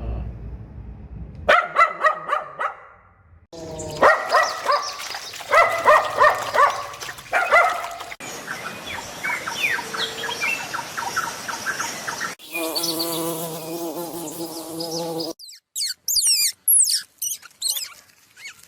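A series of different animal calls spliced one after another: bursts of quick repeated calls, then a run of short chirps, a long held call about twelve seconds in, and high whistling bird song near the end.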